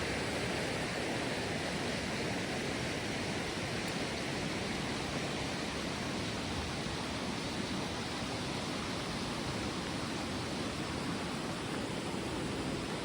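Steady rushing of flowing water, an even unbroken noise with no changes.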